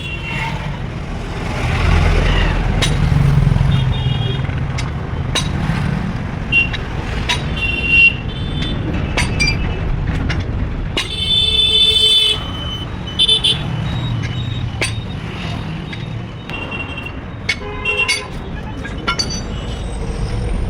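Engines running with repeated short vehicle horn toots, and one longer, louder horn blast about eleven seconds in, over a steady low rumble.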